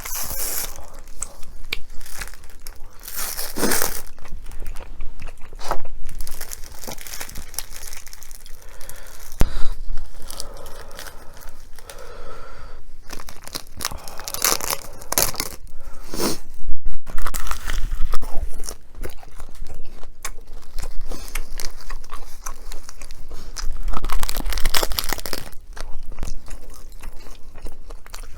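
Close-miked eating: crunchy bites and chewing, many short crunches one after another.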